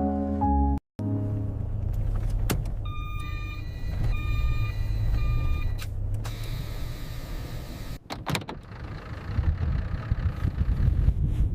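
Sounds of a car: a steady low rumble with a repeated electronic chime sounding several times in the middle, a few sharp clicks later on, then a rushing noise like wind.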